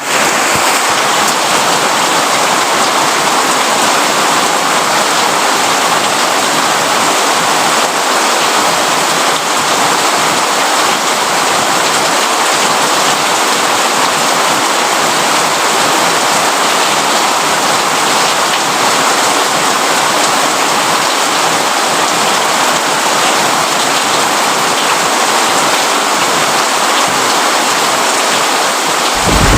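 Steady rain falling, an even hiss of drops at a constant level. A deeper low rumble sets in at the very end.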